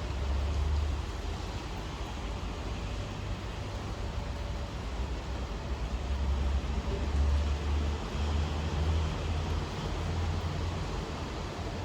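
Steady rain hiss, with a low rumble underneath that swells and fades several times.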